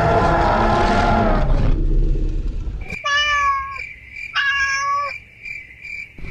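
Cartoon sound effects: a dense sound that stops about a second and a half in, then two long, slightly falling meow-like calls about a second apart over a faint steady high beeping.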